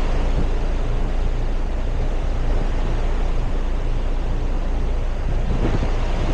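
2024 RunTru 4-ton heat pump running in heat mode: a steady low hum with an even rush of air.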